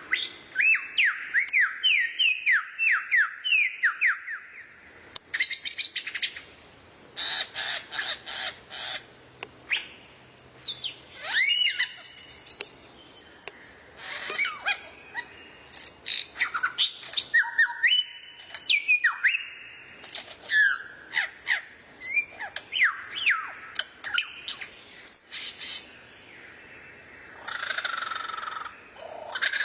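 Songbird song, varied and continuous: runs of quick downward-sliding whistled notes alternating with harsh, buzzy rattling phrases, broken by brief pauses.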